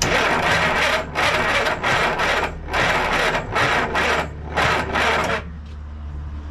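A run of six harsh rasping or scraping strokes, each about half a second to a second long, stopping about five seconds in, over a steady low hum.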